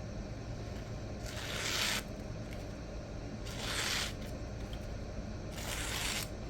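Freshly sharpened D2 knife edge slicing through paper three times, each cut a scratchy hiss of under a second, about two seconds apart. The rough, grabby sound of the cuts goes with a toothy edge with lots of bite.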